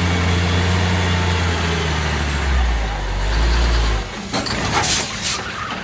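Heavy diesel engine running steadily, its pitch sagging lower as it comes under load, then cutting off abruptly about four seconds in. A few sharp clattering knocks follow.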